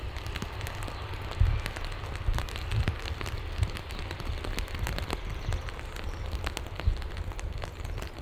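Steady rain falling, heard as a hiss with many small drop ticks. Occasional low thuds come through under it, the loudest about a second and a half in and near the end.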